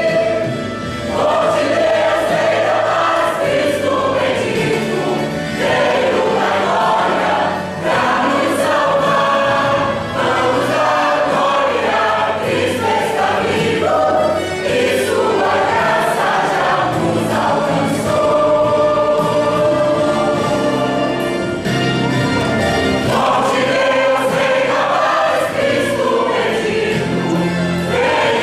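A choir singing Christian worship music, continuous throughout.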